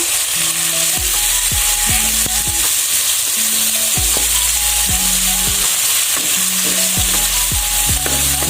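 Freshly ground Indonesian spice paste (bumbu) of shallots, garlic, chili and candlenut frying in hot oil. It gives a steady, dense sizzle that starts suddenly.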